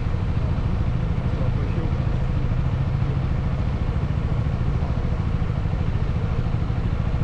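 Motorcycle engine running steadily, a continuous low rumble with no change in pace.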